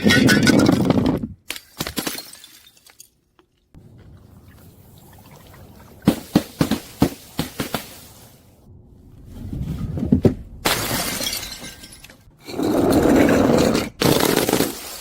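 Glass bottles shattering and crunching as they are crushed, in several bursts: a loud one at the start, crackling clusters around the middle, and another loud crunch near the end.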